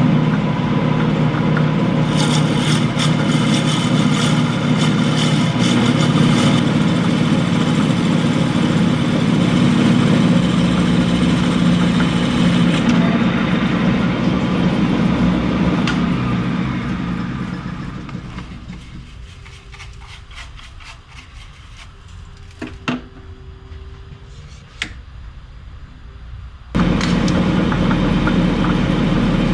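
Metal lathe motor running steadily while turning a bushing, with a higher scratchy cutting noise for a few seconds about two seconds in. The machine is switched off and spins down, a few sharp clicks follow, then it starts again abruptly near the end.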